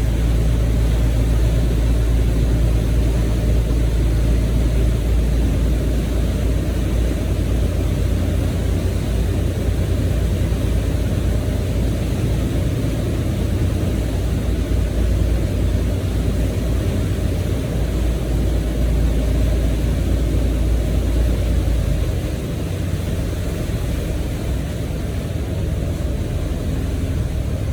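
Motorboat under way: a steady low rumble of the engine with wind and water noise. Near the end the lowest rumble drops back a little.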